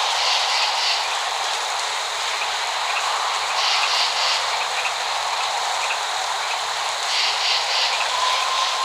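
Steady rain falling, an even hiss without any thunder rumble, with a brighter patch in the hiss coming back about every three and a half seconds.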